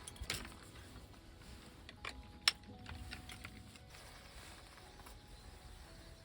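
A few sharp knocks and clicks, the loudest about two and a half seconds in, over a faint steady hiss.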